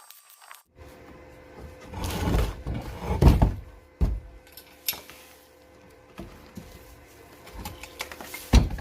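A heavy cement base on small welded-on wheels being rolled, a low rumble with a few sharp knocks.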